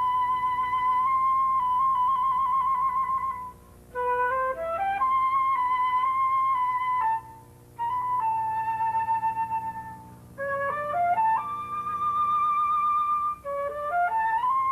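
Solo flute playing a slow melody with vibrato: long held notes, with short pauses between phrases and quick rising runs of notes leading into new phrases.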